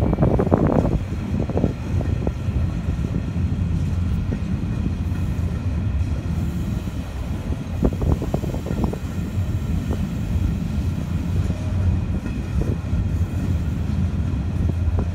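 A long freight train of loaded coal wagons rolling past, a steady low rumble with clusters of sharp knocks near the start and again about eight seconds in.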